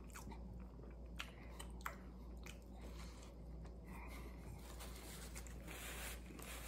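Faint close-up chewing of a bite of a croissant breakfast sandwich, with small wet mouth clicks. Near the end comes a soft rustle of a paper napkin wiped across the mouth.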